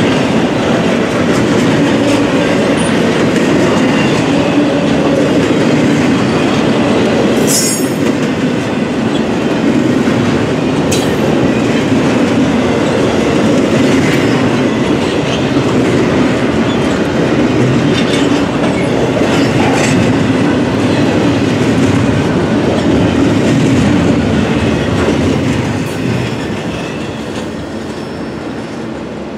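Freight train cars rolling past on the rails, a steady rumble and clatter of wheels over the track. A brief high wheel squeal comes about a quarter of the way in, and the noise starts to fade near the end as the train goes by.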